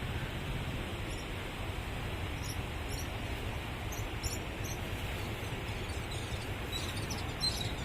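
Steady rushing noise, strongest in the low range, with faint, short, high bird chirps above it from a few seconds in and more near the end.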